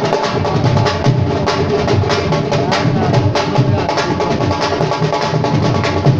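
Live instrumental music led by fast, dense hand drumming, many strikes a second, over a steady held melodic tone.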